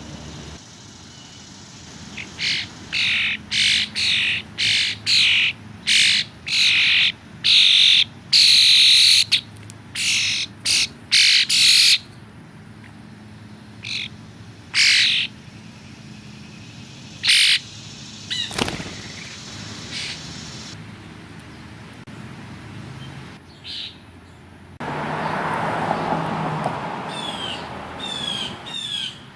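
American crows cawing: a quick run of about a dozen loud, harsh calls, then scattered single calls. About 25 seconds in there is a couple of seconds of rushing noise, with short gliding chirps near the end.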